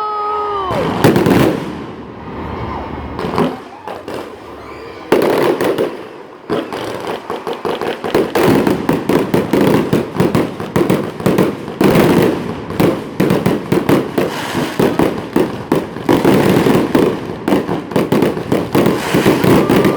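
Fireworks exploding: a few separate booming bursts in the first seconds, then from about seven seconds in a rapid, continuous run of bangs and crackles, several a second.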